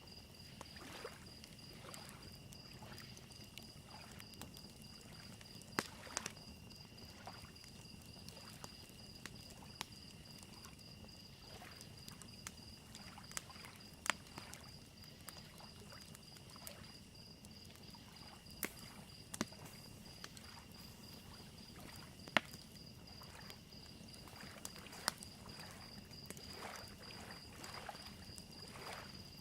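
Faint nature ambience: soft lake waves lapping on a shoreline, a wood fire crackling with scattered sharp pops, and crickets chirping steadily.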